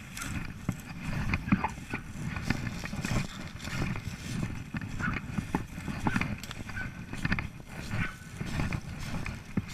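A Belgian Malinois scrabbling and trampling in brush and leaves over a person hidden on the ground, with irregular rustling and clicks.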